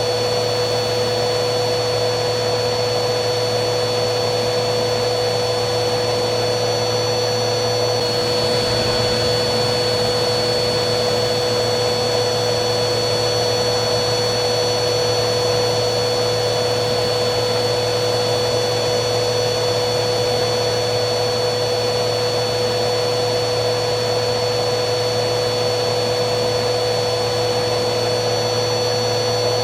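Vacuum cleaner running steadily: a continuous motor whine with a few fixed tones over a rush of air.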